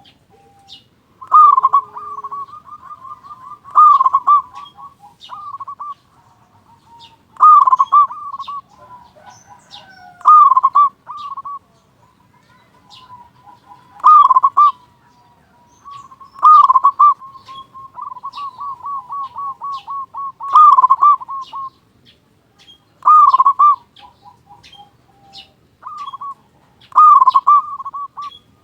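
Zebra dove (perkutut) singing repeatedly: loud cooing phrases with a rolling trill, one about every three seconds, over faint high chirps.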